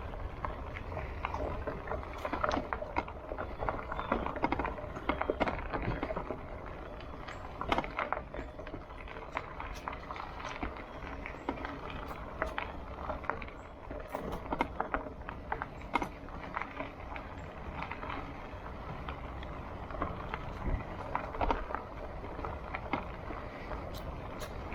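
Bicycle rolling along a bumpy dirt trail: a steady low rumble from the tyres and wind, broken by frequent short rattles and knocks as it jolts over bumps.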